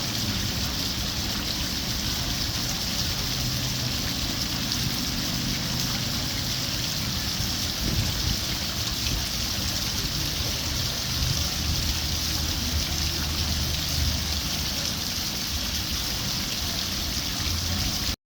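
Kemah Boardwalk's miniature train ride running: a steady rumble with a hiss over it and small swells in loudness.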